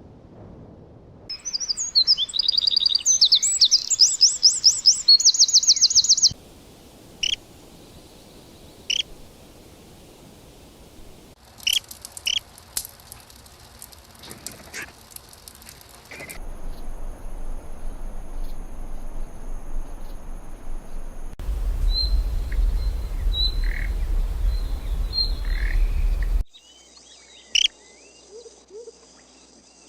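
Several different wild birds singing and calling, in separate clips joined by abrupt cuts: a loud, rapid trilling song in the first few seconds, then scattered single chirps. Later stretches carry a steady high whine and, for about five seconds past the middle, a low rumble under the chirps.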